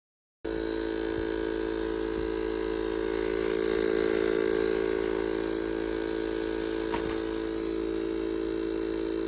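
Steady machine hum made of several fixed tones, starting abruptly about half a second in and holding level.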